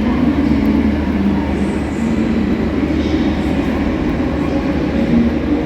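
Train running at a station platform: a steady, continuous rumble with a low hum.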